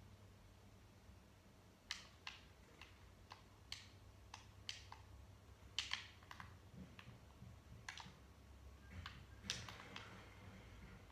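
Faint, irregular clicks and taps, some in quick pairs, over a low steady hum.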